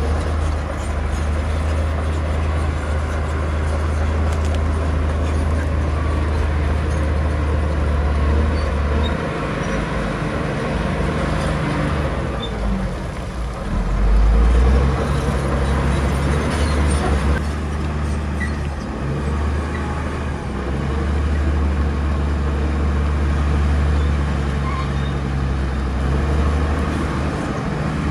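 Bulldozer's diesel engine running under load, a low drone that eases off and picks up again several times.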